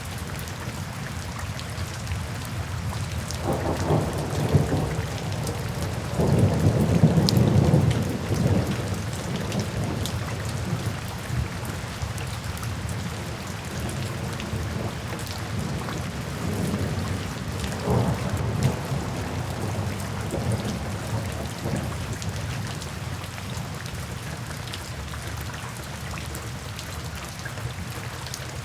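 Steady rain falling, with rumbles of thunder swelling in a few times: the loudest a few seconds in, and a shorter one past the middle.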